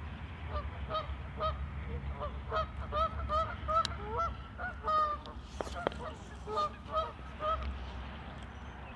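Geese honking over and over, a quick run of short calls about two a second that tails off near the end, over a low steady rumble.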